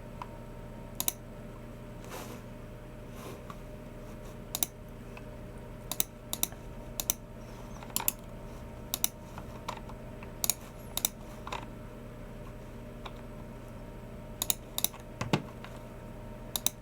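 Unhurried typing on a Logicool MX Keys Mini low-profile keyboard mixed with clicks of a Logicool G304 mouse: sharp, irregularly spaced clicks, some in quick pairs, with short pauses between them.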